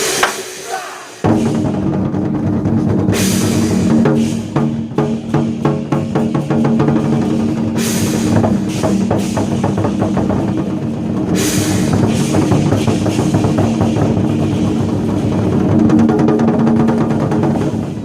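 Chinese war drums beaten by a drum troupe over a recorded backing track, which comes in about a second in, with rapid strikes and rolls.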